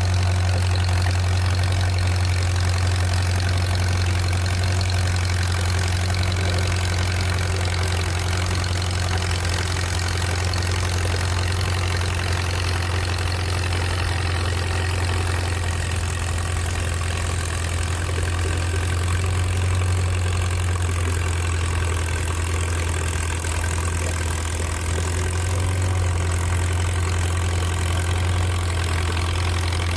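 An engine idling steadily with a constant low drone, its pitch and level unchanging.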